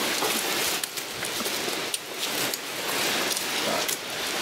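Food frying over a campfire: a steady sizzling hiss with small crackles and pops.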